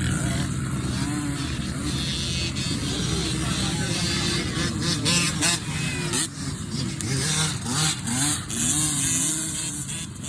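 Motocross dirt bike engines revving, the pitch rising and falling again and again as the throttle is opened and closed.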